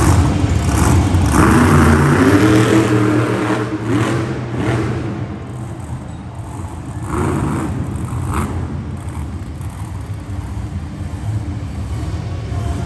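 Monster truck engine revving hard in an arena, its pitch climbing and falling with the throttle. It is loudest in the first few seconds, settles to a lower idle-like drone, then gives two short blips of throttle past the middle.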